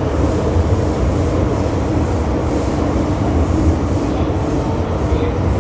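MTR Island Line M-Train (Metro-Cammell EMU) running between stations, a steady rumble of wheels on rail and running gear heard from inside the car.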